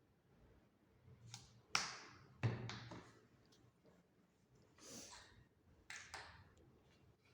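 Handling of glue and paper hexagon cut-outs on a tabletop during gluing: a few sharp taps and clicks, the two loudest close together about two seconds in, with fainter ones later.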